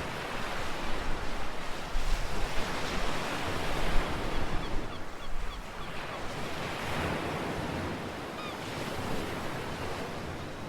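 Ocean waves washing onto the shore, swelling to a peak a few seconds in and then easing into a softer, steady wash, with a few faint high chirps.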